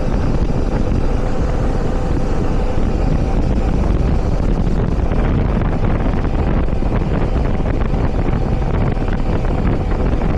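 Motorcycle riding at road speed: steady wind rush on the microphone over engine and road noise, with a faint steady engine tone in the first few seconds.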